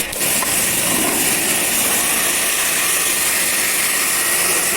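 Steady spray of a water jet hissing as it washes out the air conditioner's drain pan.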